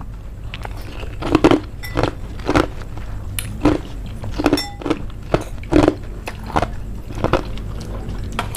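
Close-miked chewing of food, with about a dozen short crunchy bites at a steady chewing pace.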